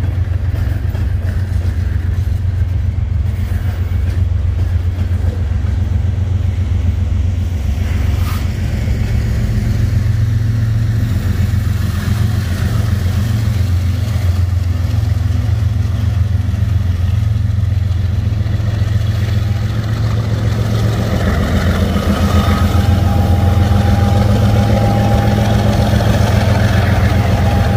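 Freight train passing close, with the steady low drone of diesel locomotive engines as a string of tank cars and a Canadian Pacific diesel unit roll by. The sound grows louder over the last several seconds as an oncoming Kansas City Southern diesel locomotive nears on the adjacent track.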